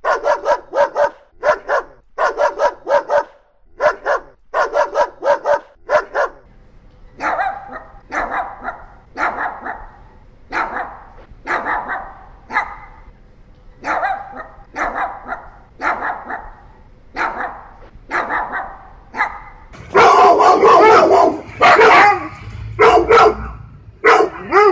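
Dog barking repeatedly. The barks come rapidly at first, then slow to about one a second from around seven seconds in, and become louder and denser from about twenty seconds in.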